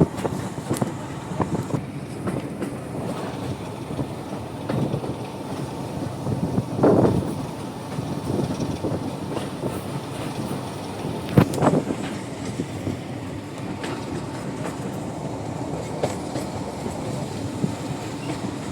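Diesel train running along the track: a steady rumble of wheels on rail, with louder knocks about seven and eleven seconds in.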